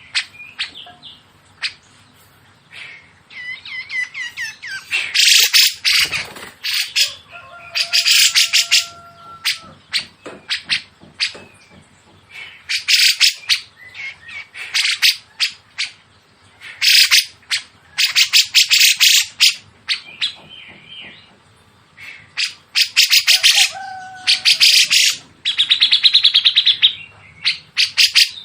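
Masteran recording of cucak jenggot and siri-siri kecil songs: loud, rapid, harsh bursts of high notes about a second long, repeating every few seconds, with a few lower whistled notes between them.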